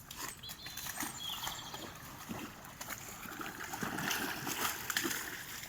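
A dog splashing and wading through shallow water, with irregular sloshes that grow busier and louder in the second half.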